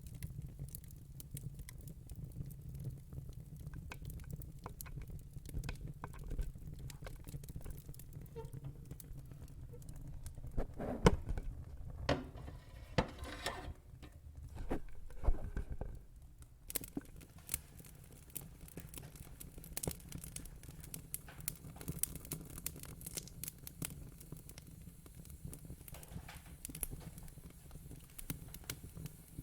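Wood fire crackling in a fire pit: scattered small pops, with a few louder snaps around the middle, over a low steady rumble.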